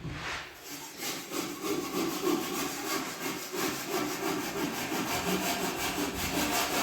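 Hand saw cutting with quick, even back-and-forth strokes.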